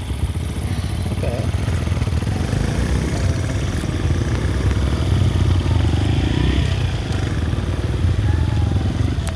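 Small motorcycle engine running steadily at low riding speed, a continuous low rumble.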